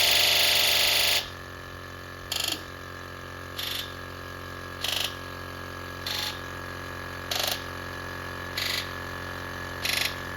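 2003 Ford 7.3 Powerstroke injectors during a key-on, engine-off buzz test: one long buzz of the injectors together stops about a second in, then the injectors buzz one at a time in short, even buzzes about every 1.2 seconds. It is the check for a misfire, run after straightening two bent pins in an injector connector, and the test sounds better.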